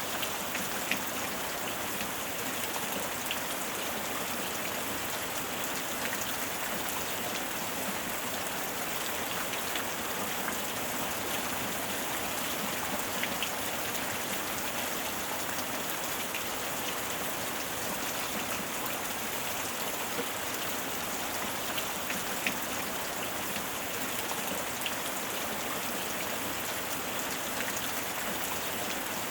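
Steady heavy rain falling, with scattered individual drops pattering on a surface.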